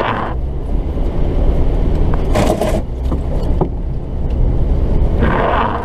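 Diesel 4x4 engine running steadily, heard as a low rumble from inside the cab, with a brief rattling burst about halfway through and a short rushing hiss near the end.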